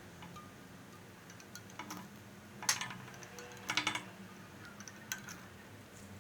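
Light clicks and two short, louder clattering rattles of small hard objects being handled, over a faint steady low hum.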